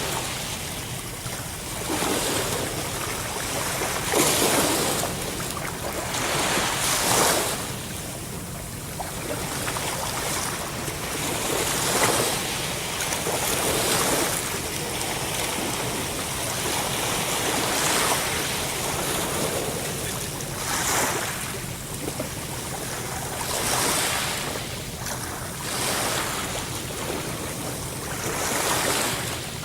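Ocean waves breaking and washing on a shore, a steady rush of surf that swells and falls back every two to three seconds.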